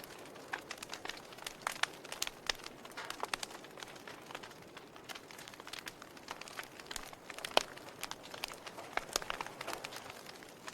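Logs burning in a fireplace, crackling with irregular sharp pops over a soft hiss, and one louder pop about two-thirds of the way through.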